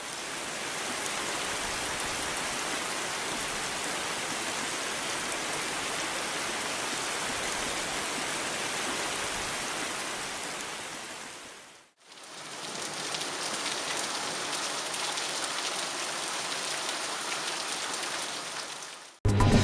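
Steady rain falling, as two separate recordings: the first fades out about twelve seconds in, and a second, duller one with more distinct individual drop hits fades in and runs until it cuts off near the end.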